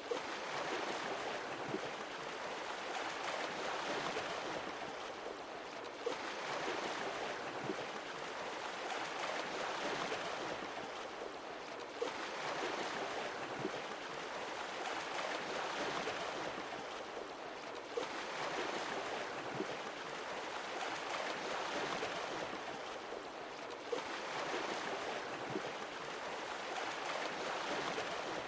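Sea waves washing in, a swell of surf rising and falling about every six seconds, with a faint click at each repeat.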